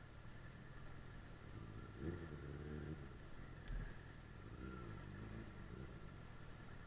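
Suzuki GSF 600 Bandit S inline-four engine running under way with a steady low rumble. The engine note swells twice, about two seconds in and again near five seconds. There is a short thump between the two swells.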